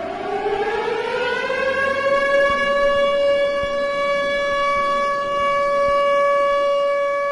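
Civil defence siren winding up, its pitch rising over the first two seconds or so, then holding one steady tone.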